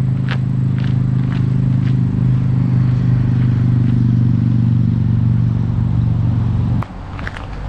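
An engine running at a steady, even pitch, loud and close, cutting off suddenly nearly seven seconds in. Footsteps on the trail come through faintly under it.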